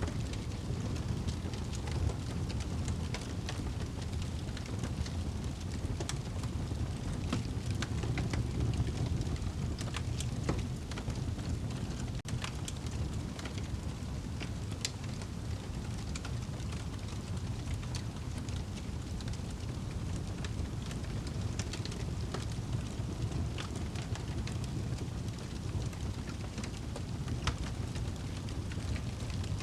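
Wood fire burning in a fireplace: a steady low rush of flame with frequent irregular crackles and sharp pops.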